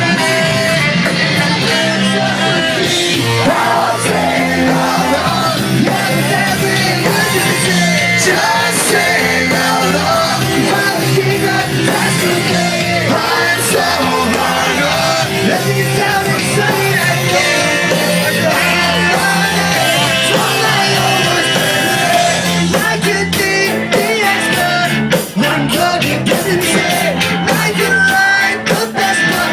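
Ska-punk band playing loudly live, with singing and shouted vocals over driving drums and guitars.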